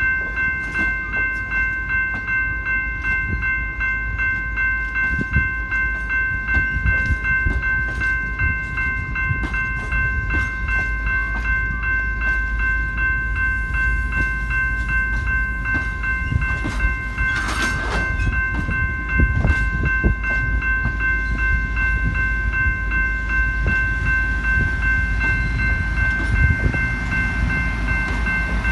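Train of passenger cars rolling slowly along the track, a steady low rumble with wheels clicking over the rail joints, over a steady high-pitched ringing from the wheels.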